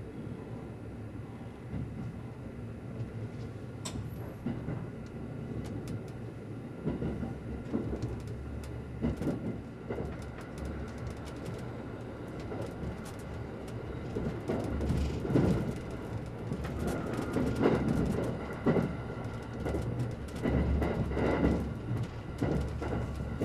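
Limited express electric train running, heard from inside the carriage: a steady rumble with wheels clacking over rail joints. The noise grows louder and the clacks come more often from about seven seconds in, as the train picks up speed leaving the station.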